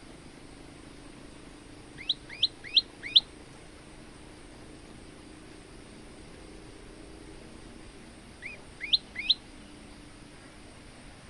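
Male olive-backed tailorbird singing: a quick run of four sharp, upward-sweeping notes about two seconds in, then three more about six seconds later.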